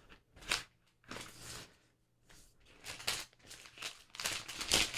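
Protective plastic film being peeled off a new iPad Pro's screen, in several short pulls with brief pauses between, the last pulls the loudest.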